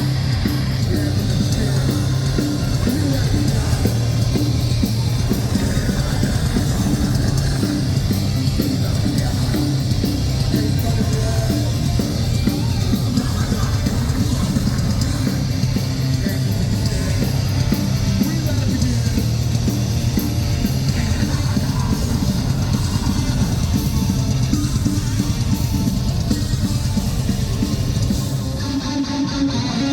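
Metalcore band playing live: heavily distorted guitars over a pounding drum kit, loud and dense throughout, thinning out briefly near the end.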